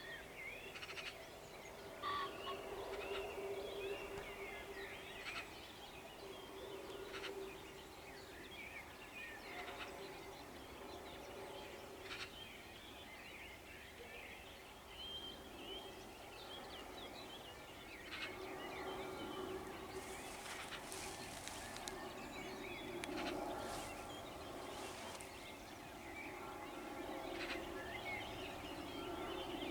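Dawn chorus of many songbirds in a meadow: overlapping chirps and trills throughout, with a few louder calls about two-thirds of the way in, over a steady low drone.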